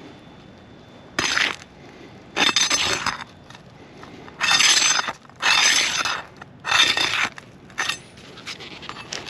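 Asphalt roof shingles being pried up from the course below, about six short bursts of scraping and crackling as the sealed tabs tear loose. The shingles are stiff and crack rather than bend, a sign they are not pliable enough to repair.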